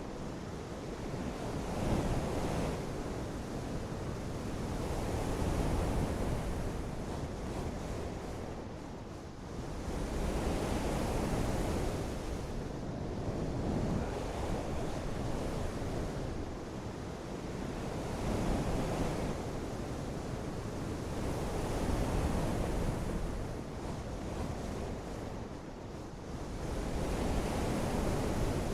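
Rushing water noise, dense and even, that swells and fades in slow surges about every four seconds.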